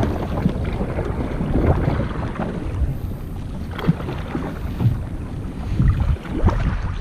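Wind buffeting the microphone over choppy water, with irregular splashing of waves against a kayak.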